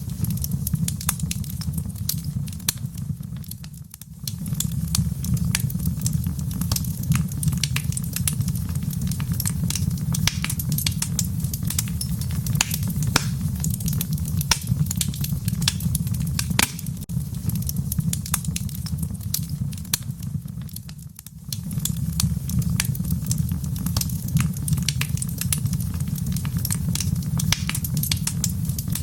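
Wood fire crackling in a fireplace: frequent sharp pops and snaps over a steady low rumble. The rumble briefly dips about four seconds in and again about twenty-one seconds in.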